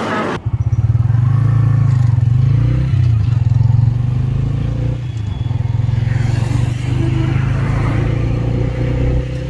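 Bajaj Freedom 125's single-cylinder engine running on CNG while the motorcycle is ridden along a road, a steady low engine note whose pitch shifts briefly about three seconds in.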